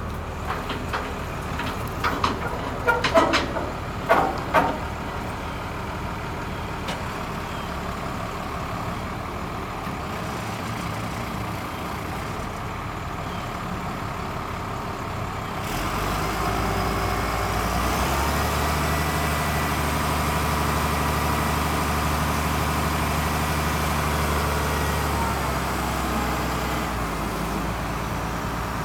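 Diesel engine of a 1996 Ford LN7000 truck crane running steadily, with a few sharp metallic knocks in the first few seconds. About 16 s in the engine speed rises and holds there, then eases back near the end.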